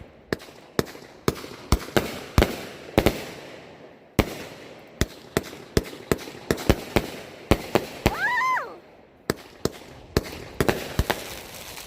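Fireworks going off in a rapid, irregular string of sharp bangs, about three or four a second, of varying loudness.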